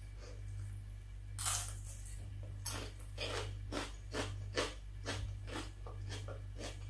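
A crisp bite into a raw red bell pepper strip about a second and a half in, then crunchy chewing, about three to four crunches a second. A steady low hum runs underneath.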